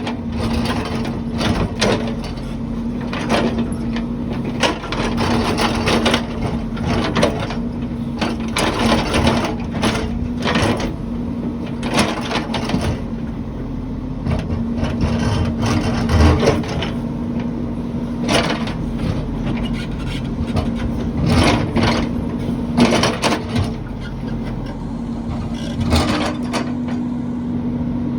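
Heavy construction machine's engine running steadily, with frequent clanks and knocks of metal and material being worked.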